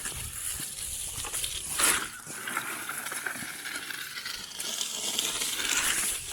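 Fallen tree branches being dragged and moved by hand, with twigs crackling and rustling. There is one louder crack or snap about two seconds in.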